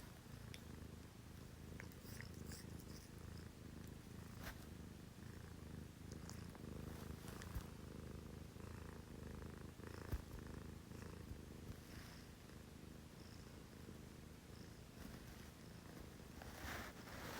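Domestic cat purring steadily: a low, even rumble, with a few faint clicks.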